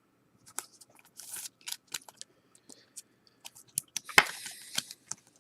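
1992-93 Fleer Ultra basketball trading cards being handled: scattered light clicks and rustles of cardboard. About four seconds in there is a sharp snap, then a second of sliding, scraping rustle.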